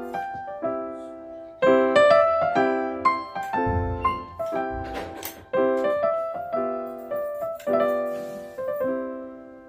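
Background piano music: a run of struck notes, each decaying, fading out near the end.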